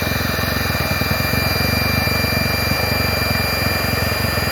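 Electric inflator air pump running steadily and loudly, a fast low buzz with a steady high whine over it, blowing extra air into a diesel heater's air intake to cure smoking from too little combustion air.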